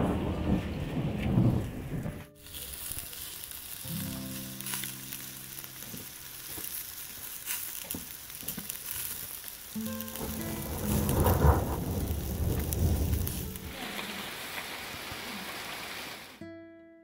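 Heavy thunderstorm rain pouring steadily, with thunder rumbling in the first two seconds and again for a few seconds a little past the middle.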